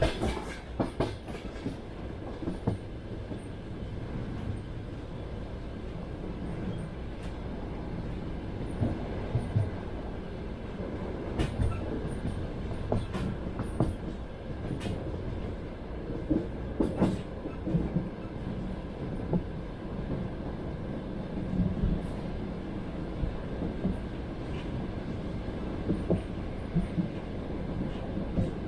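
Passenger train running on the rails, heard from inside a carriage: a steady low rumble with wheels clacking over rail joints every few seconds and occasional sharper knocks.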